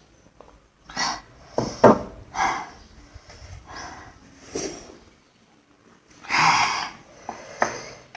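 Close-up eating sounds of spicy noodles: slurps and sharp sniffing breaths come in short bursts every second or two, with a couple of sharp clicks about two seconds in.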